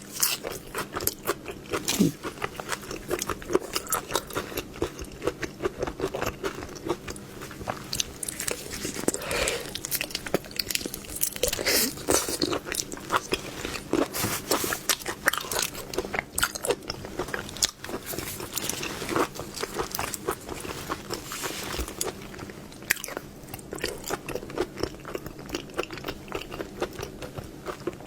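Close-miked eating of seafood: continual biting, crunching and chewing, heard as a dense run of crisp irregular clicks.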